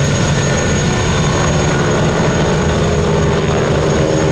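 Modified Boeing Stearman biplanes with souped-up 450 hp radial engines flying a display pass: a loud, steady engine and propeller drone. The engine tone comes through more clearly near the end.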